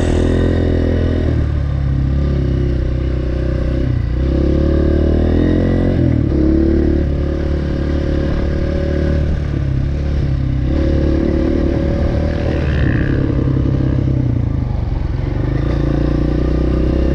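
Single-cylinder enduro dirt bike engine running while being ridden, the revs dropping and picking up again several times with throttle and gear changes.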